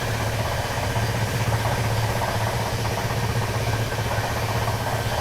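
Steady low rumble and hiss of a passenger train, heard from inside the carriage.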